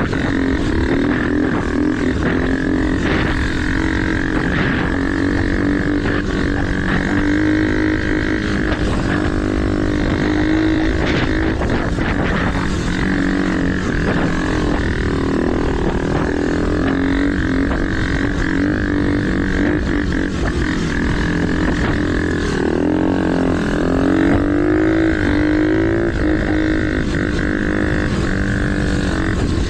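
Small mini dirt bike engines running as the bikes are ridden, a steady drone whose pitch rises and falls with the throttle, most clearly in the last few seconds.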